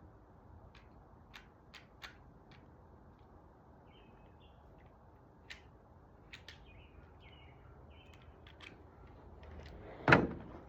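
Scattered light clicks and taps of sliding-door lock hardware and screws being handled, with faint bird chirps in the background, then a single loud knock near the end.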